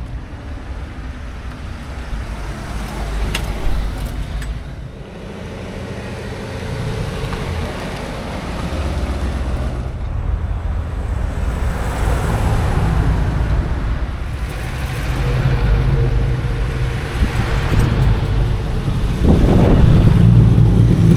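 Car engines running and vehicles moving past, a steady low rumble that swells and fades several times, loudest near the end.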